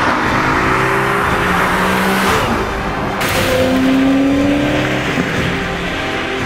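Maserati GranSport's V8 engine running under acceleration as the car drives past and away, the engine note rising slightly near the middle, with an abrupt change in the sound about three seconds in.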